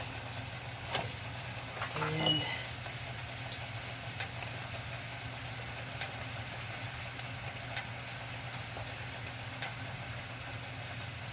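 A steady low hum runs throughout, with a handful of sharp, light clicks of a utensil against a plate as food is scooped and eaten.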